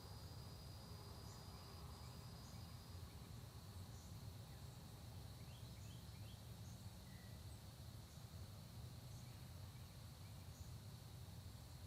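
Faint early-morning countryside ambience: a steady high-pitched insect trill runs throughout over a low rumble, with a few brief, faint bird chirps around the middle and near the end.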